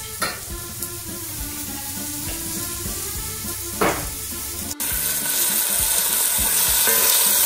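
Onions and garlic frying in olive oil in an enamelled cast-iron casserole, sizzling; the sizzle turns suddenly much louder about five seconds in. Two short knocks on the pot, one just after the start and one about four seconds in.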